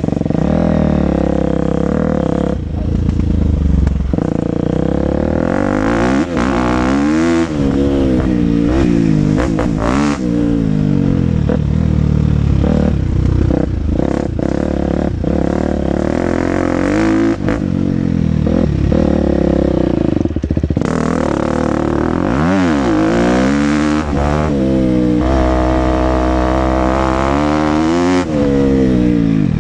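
KTM 250 SX-F four-stroke single-cylinder motocross engine under riding, its pitch repeatedly rising as the throttle opens and dropping back off-throttle and through gear changes. Scattered knocks and clatter come through from the bike over the track.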